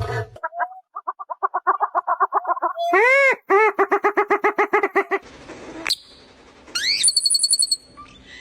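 Bird calls in quick succession: a fast chattering run of short notes, a single loud arching call, then another rapid series of notes. Rising whistles and a high ringing tone follow near the end.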